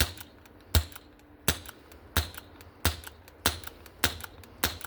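BB gun being fired repeatedly: about eight sharp reports, roughly one every two-thirds of a second, some noticeably weaker than others. The gun is misfiring often.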